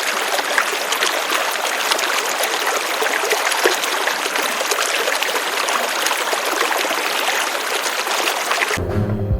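Water running and trickling steadily, a dense splashy hiss with many small clicks. About nine seconds in it cuts off sharply and music begins.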